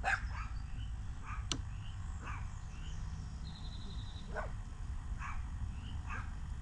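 Faint repeated barks, about one a second, over a low steady rumble, with one sharp click about one and a half seconds in.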